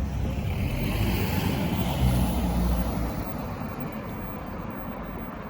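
A road vehicle passing on the street: engine rumble and tyre noise build to their loudest about two seconds in, then fade away.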